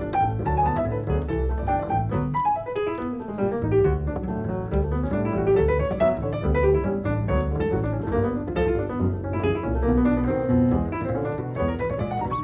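Jazz piano and double bass duet: the piano plays a busy run of melody and chords over plucked upright bass lines.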